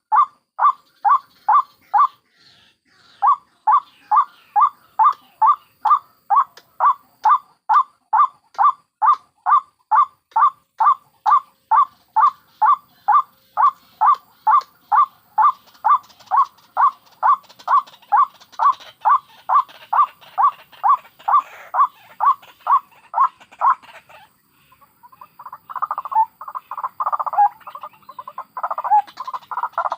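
White-breasted waterhens calling: a steady run of repeated calls, about two a second, with a short break near the start. Near the end it turns into a denser, jumbled chatter of calls.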